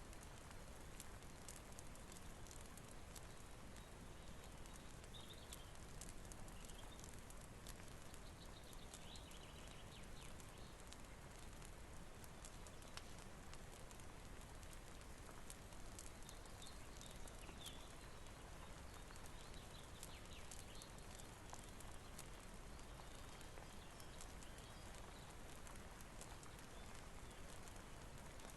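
Faint, steady rain hiss with small sharp crackles of a wood fire scattered all through.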